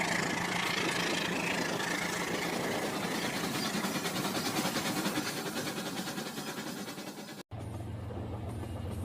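Rail King toy train running on its plastic track: a small electric motor whirring with a fast, even rattle. It cuts off abruptly about seven and a half seconds in and gives way to a lower, steadier hum.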